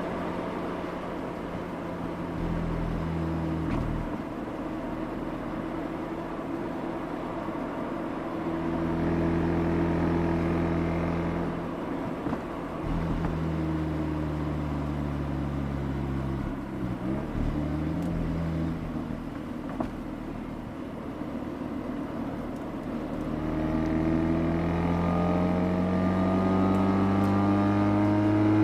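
Mazda RX-8's twin-rotor Wankel rotary engine running under way, heard mostly through its exhaust at the rear bumper. It holds a steady note with small pitch shifts through the middle, then its pitch climbs steadily over the last several seconds as the car accelerates.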